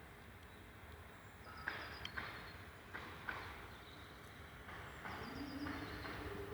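Small birds chirping outdoors: short calls and quick high trills. A low steady hum joins about five seconds in.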